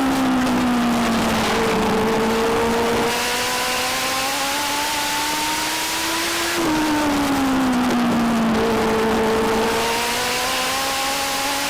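Legend race car's Yamaha 1200 cc four-cylinder motorcycle engine running at racing speed around a short oval. The pitch falls as the throttle comes off for a corner, holds low through it, then climbs steadily down the straight, and drops again about six and a half seconds in to repeat the cycle.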